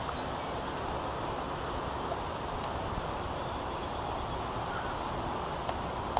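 Steady rushing noise of strong wind, even and without a clear motor whine.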